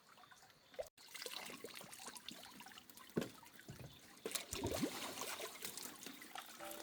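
Water pouring and trickling, with irregular small splashes and gurgles.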